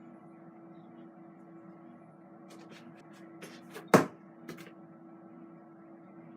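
Hard plastic parts of a Shark Rocket vacuum being handled and fitted: a few light clicks, then one loud sharp clack about four seconds in, over a faint steady hum.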